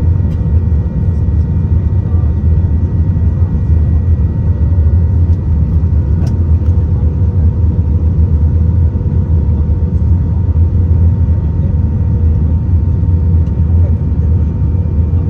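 Steady low rumble of engines and airflow heard inside an Airbus A320 passenger cabin, with a faint steady whine on top.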